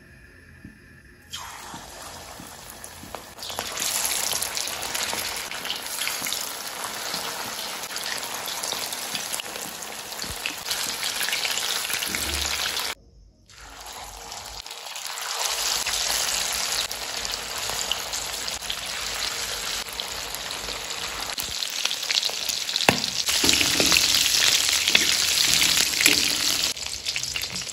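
Batter-coated chicken pieces deep-frying in hot oil in a metal kadai: a steady crackling sizzle. It stops briefly around the middle, then returns louder toward the end.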